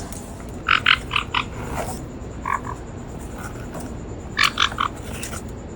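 A parrot giving quick runs of short croaking clicks, four or five pulses at a time, in three bursts.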